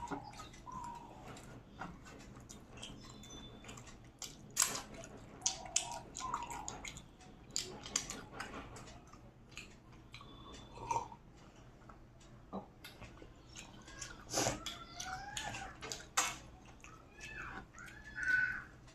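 Close-up eating sounds of rice and curry: chewing, lip smacks and many short, wet clicks, with a few short squeaky chirps near the end.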